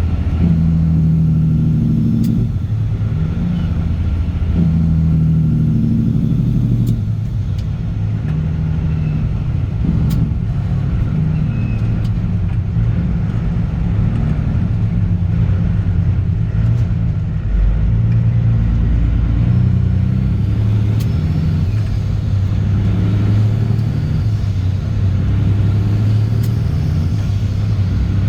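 Caterpillar C15 ACERT inline-six diesel with a straight-pipe exhaust running under way in a semi-truck. Its deep note shifts pitch a few times in the first seven seconds, then holds steady.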